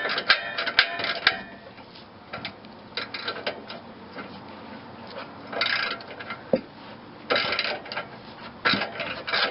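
Hand wrench working a rusted exhaust muffler bolt loose: repeated bursts of quick metallic clicking and scraping, with short pauses between strokes, as the seized bolt slowly turns.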